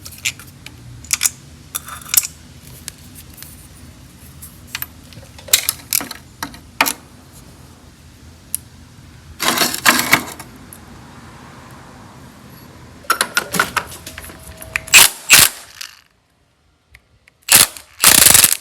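Scattered metallic clinks and clanks of hand tools against engine bolts and small washers, with a longer rasping stretch about ten seconds in. The sound cuts out briefly near the end, then two short loud bursts.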